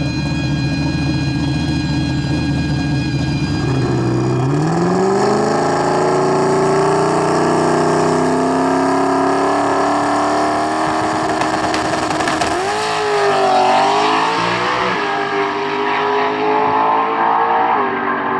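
Drag race car's engine running steadily, then revving up sharply about four seconds in and holding high revs. The pitch wavers, dipping and recovering twice, about two thirds of the way through.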